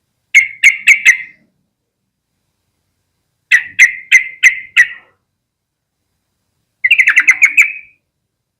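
Yellow-vented bulbul calling in three loud bursts of short, sharp notes: four, then five, then a quicker run of about eight near the end, with pauses between.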